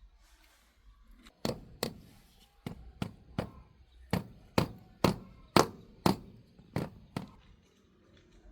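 About a dozen sharp knocks of hammering, roughly two a second, each with a short ring. They start about a second and a half in and stop about a second before the end.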